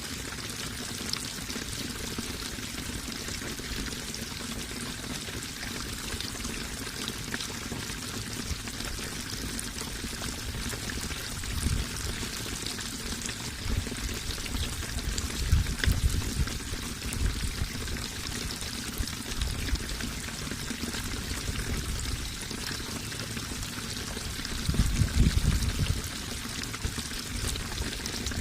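Running water pouring and splashing steadily, with a few bouts of low rumble, the strongest about halfway through and again near the end.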